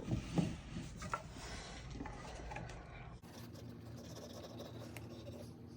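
Faint handling sounds of crafting at a table: a few light knocks and short rubbing scrapes, then quiet room tone with small ticks.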